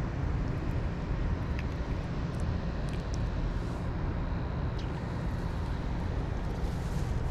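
Steady low rumble of water rushing below a dam, with a few faint clicks.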